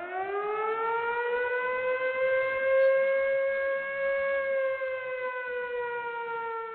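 Warning siren: one long wailing tone that rises in pitch at the start, holds steady, then slowly sinks and fades near the end.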